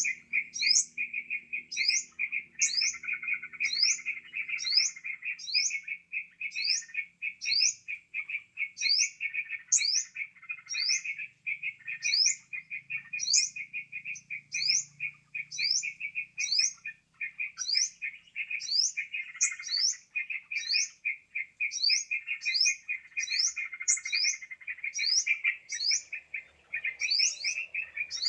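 Bird-lure recording of yellow-vented bulbul (trucukan) calls: a continuous fast chatter with sharp, rising high notes repeated about twice a second.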